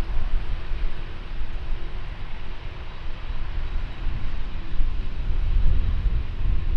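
Jet airliner engine noise as a low, steady rumble with a faint hum, dipping in the middle and building again near the end, with wind buffeting the microphone.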